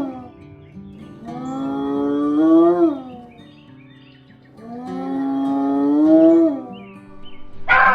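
Cow mooing: two long drawn-out moos, each rising slightly in pitch and about three seconds apart, after the end of an earlier one. A short harsh call of another kind comes near the end.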